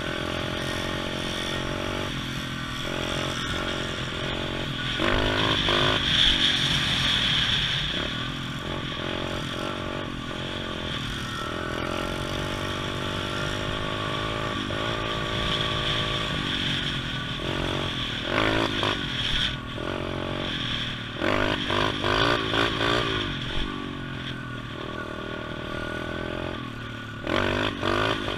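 Pit bike engine being ridden, revving up and down repeatedly as the throttle opens and closes, with several louder bursts of acceleration.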